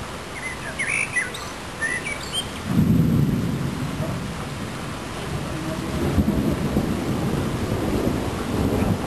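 Thunder rumbling, starting suddenly about three seconds in and rolling on in swells for several seconds, over steady rain. A bird chirps a few times in the first seconds.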